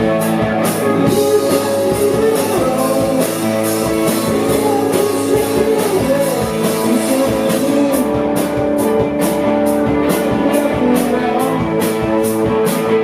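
Live rock band playing: electric guitars holding chords over a drum kit with steady cymbal strikes, and a melody line that may be sung.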